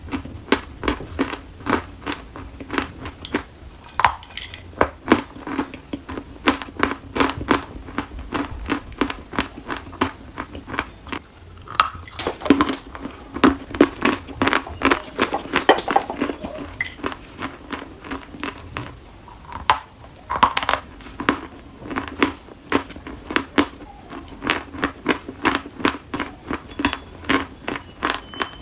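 Dry chalk being bitten and chewed: a continuous run of sharp, dry crunches, a few each second.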